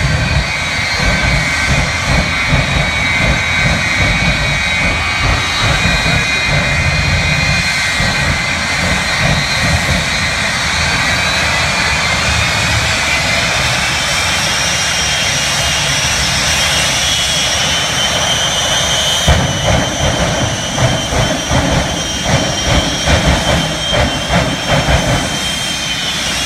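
Jet engines of the Shockwave jet truck running with a steady high whine that rises in pitch as they spool up about halfway through. A rough, pulsing rumble comes in with it near the end.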